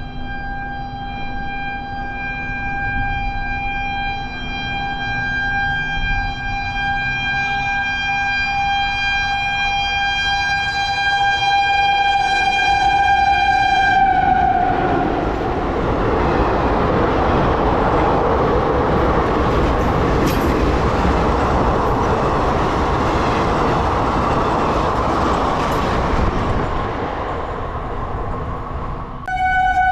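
Indian Railways train horn held as one long steady note for about fourteen seconds, falling slightly in pitch as it ends, followed by the loud rumble of the train passing. The horn sounds again right at the end.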